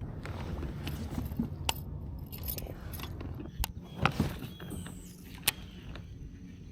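Several sharp clicks and light metallic clinks from fishing tackle being handled in a kayak, such as a reel and a lure's treble hooks, over a steady low rumble of water and movement. A bird chirps faintly about two-thirds of the way in.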